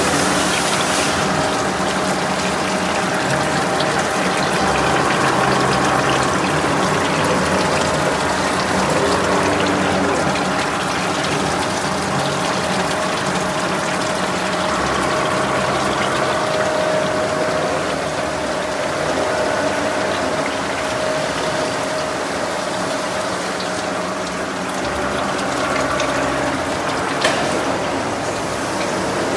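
Gleason No. 104 straight bevel Coniflex gear generator running: a steady mechanical whir of its gear train with several held tones, and a single sharp click near the end.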